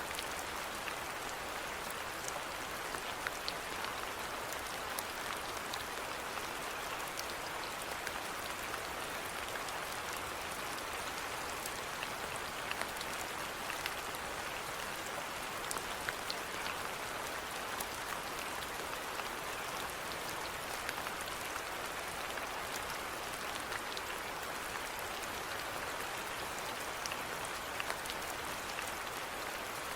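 Steady rainfall with many individual drops pattering on surfaces, an even hiss dotted with small scattered ticks.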